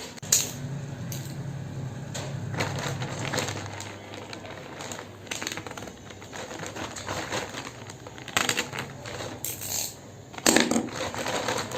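A parcel's packaging being opened by hand: irregular crinkling, rustling and tearing, with louder crackling bursts in the last few seconds.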